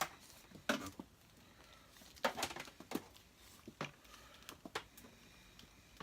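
Parts of a Hoover Senior Ranger U4002 upright vacuum cleaner being handled during reassembly of the handle: a handful of scattered clicks and knocks.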